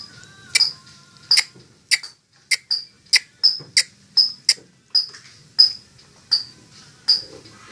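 Lovebird giving a long run of short, sharp, high-pitched chirps, about two to three a second.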